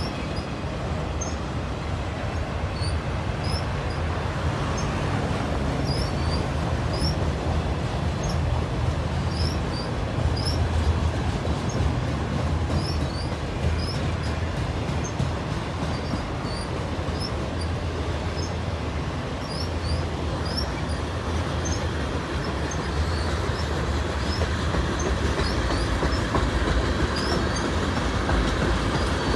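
CN freight train rolling past on the rails, a steady low rumble of wheels on track.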